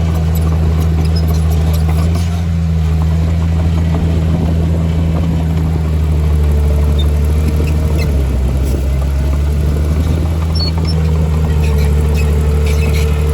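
Heavy diesel engine of an earthmoving machine running steadily with a deep drone, dipping briefly about eight seconds in, with a faint whine over it in the second half.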